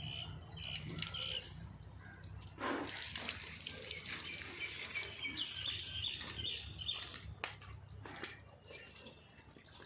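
Birds chirping in short repeated calls, with scattered sharp clicks and a low steady background hum.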